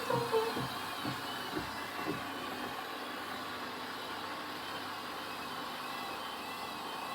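Hoover One Touch washing machine drum spinning up with an extremely unbalanced load: low thuds about twice a second for the first two seconds, then a steady motor run with a high wavering whine.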